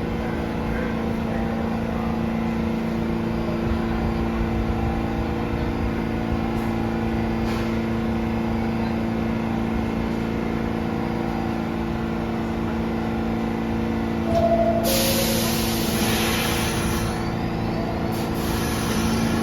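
New York City subway train standing at the platform with a steady electrical hum. About 15 seconds in, a loud burst of air hisses from the brakes for a couple of seconds.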